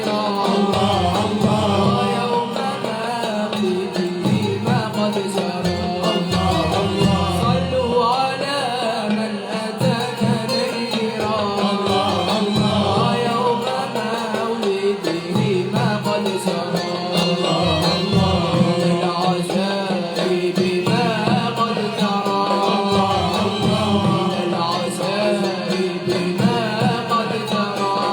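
Malouf ensemble performing, with voices singing a wavering, ornamented melody over instruments and steady percussion.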